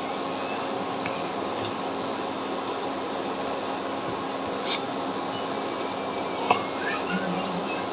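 Potato-and-flour snacks frying in oil with a steady sizzle, and a utensil clinking against the pan a couple of times, about halfway through and again shortly after, as they are turned.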